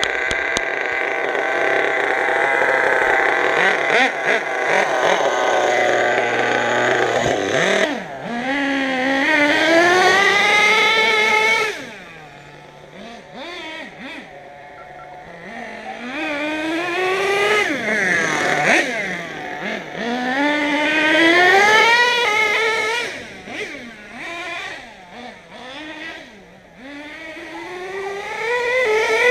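An RC monster truck's small engine running hard, then revving up again and again in rising sweeps and dropping back, with a quieter stretch at low revs about halfway through.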